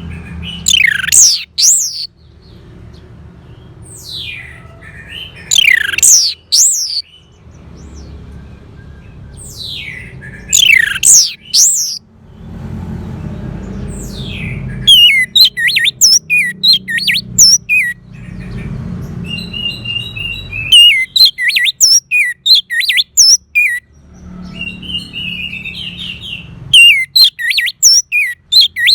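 Orange-headed thrush singing: loud sweeping phrases every four to five seconds, then, from about halfway, quick runs of short repeated notes in several bursts.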